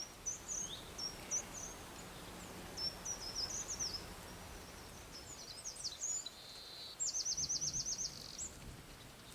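Small songbird singing in high, quick chirps and twitters, then a rapid trill of about ten notes near the end, over a steady outdoor background hiss.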